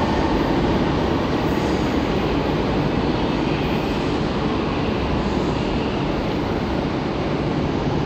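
Electric train running along the tracks of an underground station, a steady noise that holds at the same level throughout.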